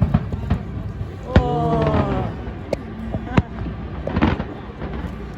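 Fireworks going off in an irregular string of sharp bangs and cracks. A person's voice calls out with a long, falling note about a second and a half in.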